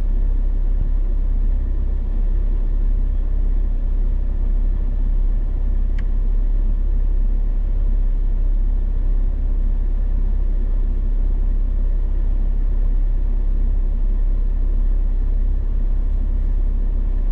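Steady low rumble of a vehicle running, unchanging throughout, with a single faint click about six seconds in.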